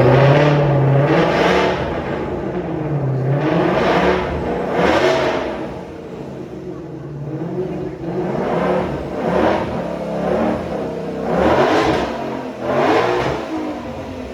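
Car engines revving repeatedly. The pitch rises and falls in several swells, loudest at the start, around four to five seconds in, and around twelve seconds in.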